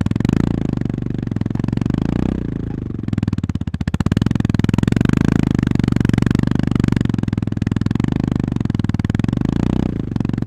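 Honda GB350S's air-cooled 348 cc single-cylinder engine running under way, with a steady exhaust thump. The throttle eases off about two seconds in, then opens again about a second later.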